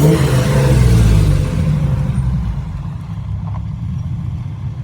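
A TVR sports car's engine revving as it drives past, its pitch rising at the start, loudest in the first second and a half, then fading as it moves away.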